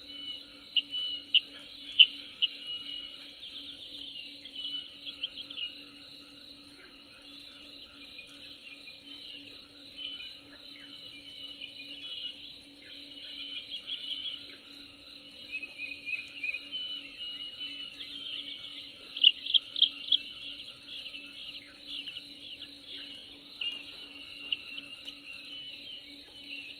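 Birds chirping and twittering in quick runs, with louder flurries about 2 seconds and 19 seconds in, over a steady insect-like drone and a low steady hum.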